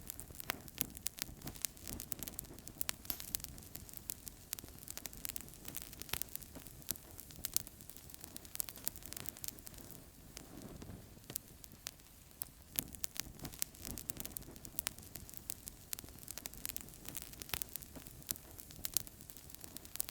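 Wood fire crackling in a fireplace: many irregular sharp pops and snaps over a steady hiss of burning.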